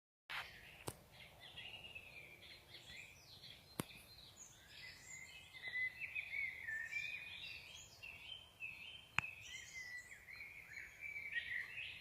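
Several birds singing, a dense run of quick chirps and warbles, with three sharp clicks.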